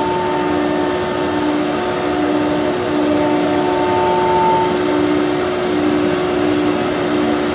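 CNC router running: a steady machine whine over a hiss, with one tone swelling and fading about once a second.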